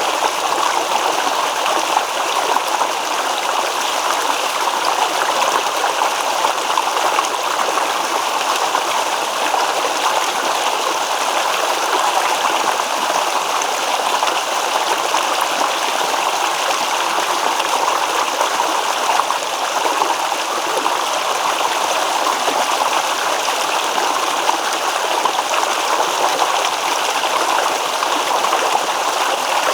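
Shallow stream babbling and rippling over stones, a steady rush of water with no change in flow.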